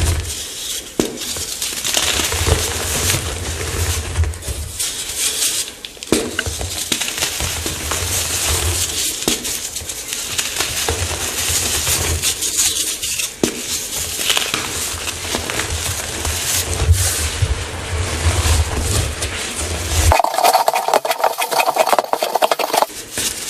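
Blocks of chalk being crushed and crumbled, a dense crunching crackle full of small snaps. Its texture changes for a few seconds near the end.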